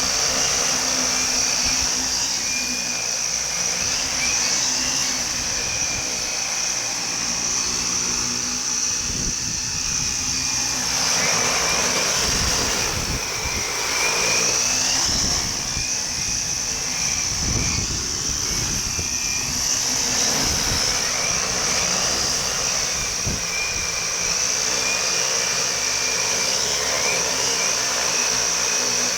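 Multirotor camera drone with large propellers in flight: a steady high motor whine with a tone that wavers slightly as the motors adjust. Wind buffets the microphone as low rumbling gusts through the middle stretch.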